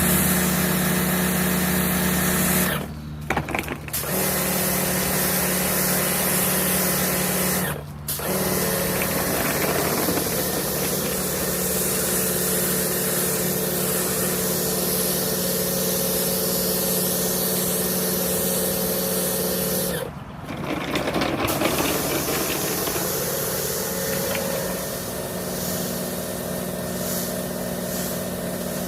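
Kärcher cordless lithium-ion pressure washer's motor and pump running steadily as it sprays, stopping briefly three times, a few seconds in, around eight seconds and around twenty seconds, then restarting.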